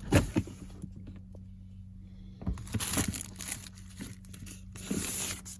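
Packaging material being handled to pack an order: a knock right at the start, then crinkling and rustling in irregular bursts through the second half.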